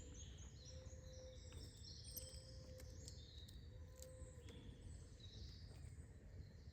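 Faint chorus of small songbirds chirping and twittering over a low background rumble, with a low held note repeating about every second and a half and a few faint clicks.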